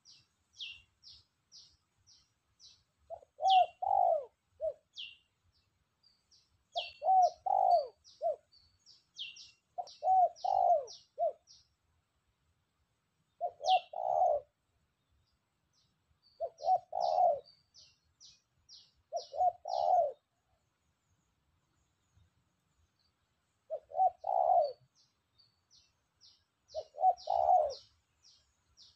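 Spotted dove cooing repeatedly, a short phrase of a few low coos roughly every three seconds; a recently caught wild bird already calling freely. Small birds chirp in quick high runs between the phrases.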